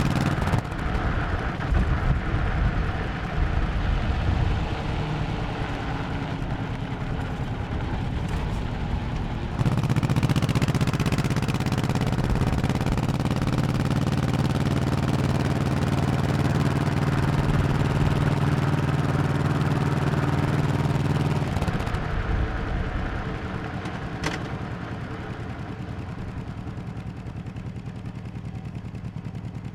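1100cc V-twin motorcycle engine running while riding. Its note jumps up under throttle about ten seconds in and holds steady, then drops away as the throttle is rolled off a little after twenty seconds. There is a single sharp click a few seconds later.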